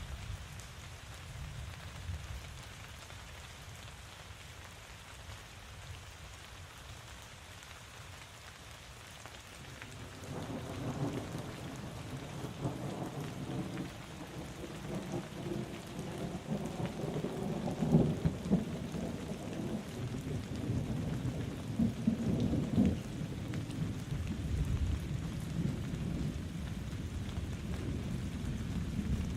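Steady rain falling, joined about a third of the way through by a long roll of thunder that swells with a few louder peaks and keeps rumbling.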